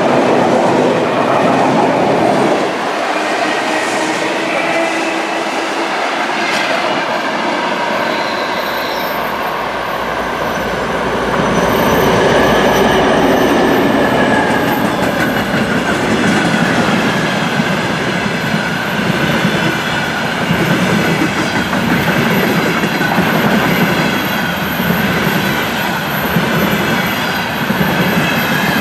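An ER9t electric multiple unit running past, then a 2M62 twin-section diesel locomotive with its two-stroke diesels running passes close, loudest a little before the middle. After it, the container wagons roll by with steady clickety-clack of wheels over rail joints.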